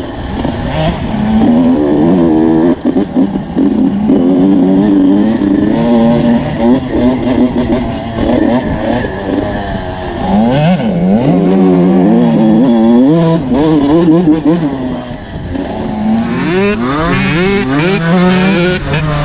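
Small-bore two-stroke motocross bike engine being ridden on a trail, revving up and dropping back again and again as the throttle is worked and the gears change. About three quarters of the way through, a harsher hissing rush joins the engine as it revs up quickly several times.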